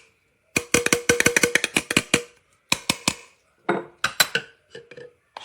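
Rapid run of hard taps or clinks on a hybrid glass-and-plastic baby bottle, about ten a second, each with a faint ring. There are two bursts, the first longer, with a pause between them and a few scattered knocks near the end.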